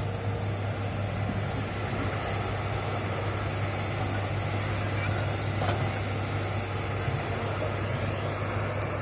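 Hitachi hydraulic excavator's diesel engine running steadily with a strong low hum, with a faint knock or two.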